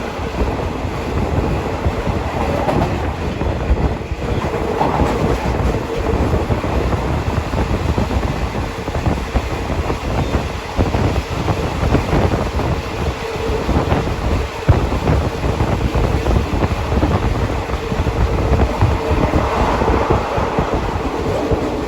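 Passenger carriage of a Thai locomotive-hauled rapid train running at speed: a steady low rumble from the wheels with a continual irregular clatter of clacks over the track, and a faint hum that comes and goes.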